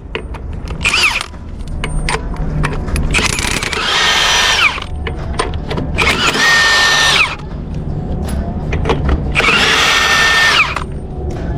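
Handheld power tool run in repeated bursts of about a second each, four main ones and a short one about a second in, its whine rising as it spins up and falling as it winds down each time.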